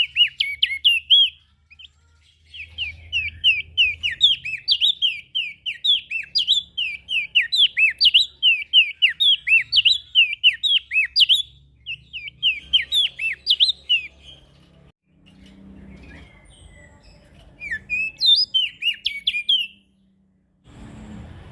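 Prenjak daun, a small Indonesian songbird, singing long runs of sharp, sweeping chirps, about three to four a second, broken by short pauses, over a faint low hum. Near the end the song stops and a steady hiss comes in.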